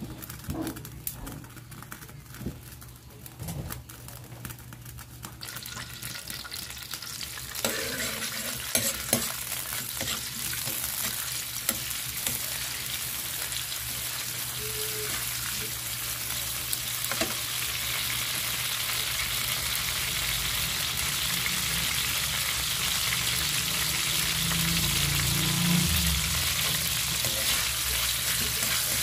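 Sliced ginger sizzling in hot oil in a steel wok, stirred with a metal spoon that clicks and scrapes against the pan. The sizzle comes up a few seconds in and grows steadily louder.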